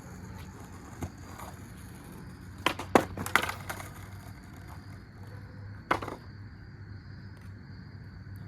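Skateboard tricks on a board with very loose trucks: a quick series of sharp clacks from the board popping and landing about three seconds in, and another single clack about six seconds in.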